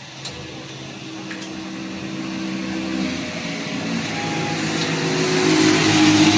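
Small motorcycle engine running, getting steadily louder, its pitch shifting about halfway through, with a few light clicks near the start.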